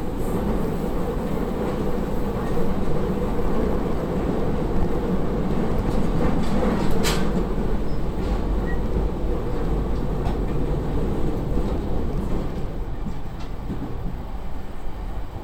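Narita Line electric train running between stations, heard from inside the car: a steady rumble of wheels and running gear with one sharp click about halfway through, growing a little quieter near the end.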